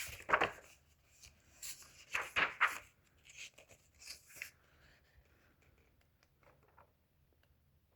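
Paper pages of an old book rustling as they are handled and turned, a few short rustles in the first half.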